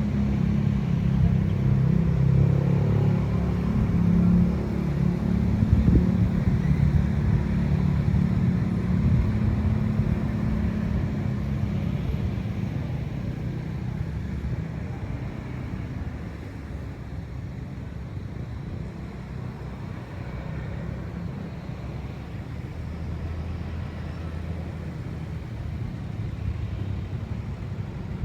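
Wind blowing, a steady low rumbling rush that is stronger in the first half and eases off after that.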